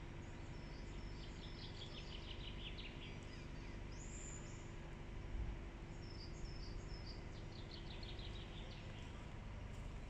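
Faint songbird song: two quick descending series of high chirps a few seconds apart, with a short high whistle between them, over a steady low hum.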